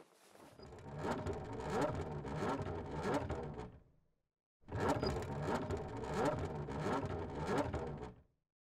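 Early motor car's engine sound effect: a rhythmic mechanical running sound, played twice with a short break between.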